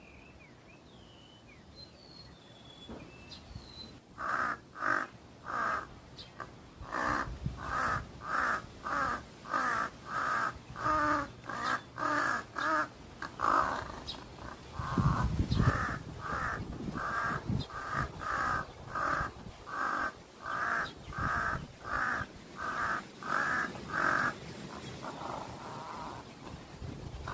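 Crow cawing over and over, about two caws a second, in long runs that start about four seconds in and stop near the end. A loud low rumble fills a short pause midway, and faint chirps of small birds come before the cawing starts.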